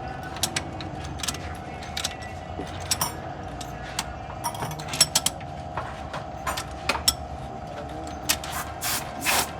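Metal hand tools and small engine parts clinking and tapping in irregular clicks over a steady hum, as work goes on on the engine during a valve tappet adjustment.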